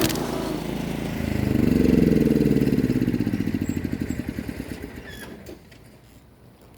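Small engine of a riding lawn tractor running, then shut off: its firing pulses slow and fade until it stops about five and a half seconds in.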